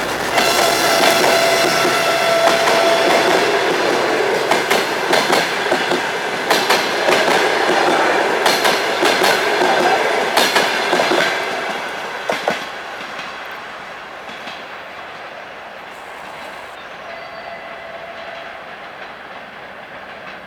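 Passenger coaches of an express train passing close at speed, their wheels clacking in pairs over rail joints, with a faint ringing from wheel and rail. About twelve seconds in the last coaches go by and the noise falls away to a quieter fading rumble.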